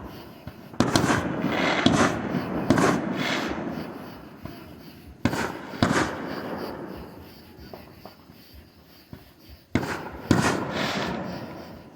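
Fireworks going off: about seven loud bangs in three clusters, each followed by a fading rumble and crackle.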